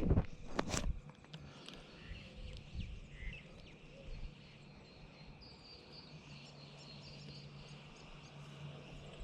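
Two sharp knocks within the first second, then a quiet outdoor background with faint bird chirps.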